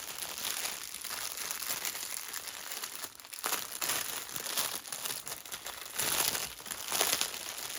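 Small plastic bags of diamond painting drills crinkling and rustling as they are handled and taken out of the kit box.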